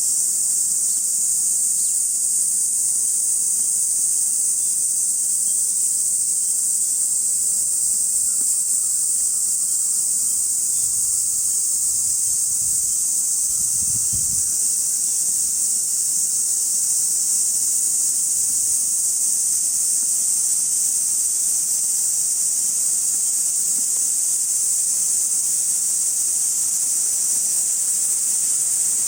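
Insects singing in a steady, high-pitched chorus that holds one unbroken shrill drone throughout.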